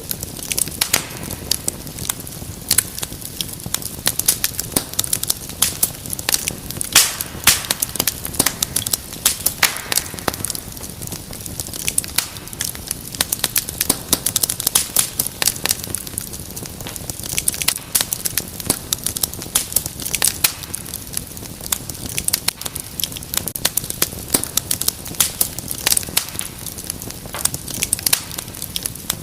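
Wood fire crackling in a fireplace: a steady low rush of flames with dense, irregular sharp pops and snaps throughout.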